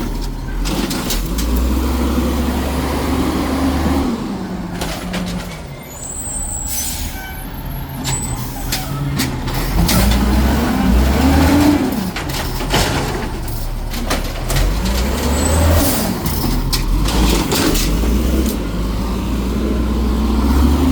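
Garbage truck engine revving up hard and dropping back several times as it drives the hydraulics to lift and pack trash, with sharp clanks and clatter in between.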